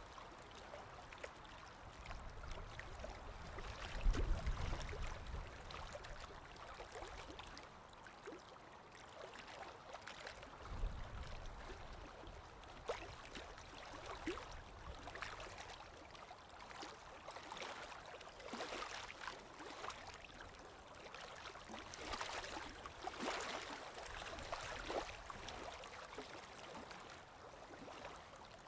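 Small stream babbling and trickling, with many small splashes and gurgles. A brief low rumble comes about four seconds in and again about eleven seconds in.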